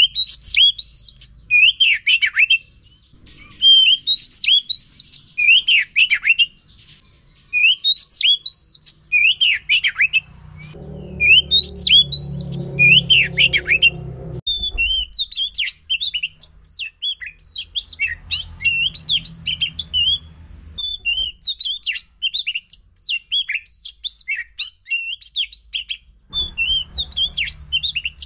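Oriental magpie-robin singing in loud repeated phrases of whistled notes with sharp up-and-down sweeps. About halfway through it turns into a faster run of short chattering notes.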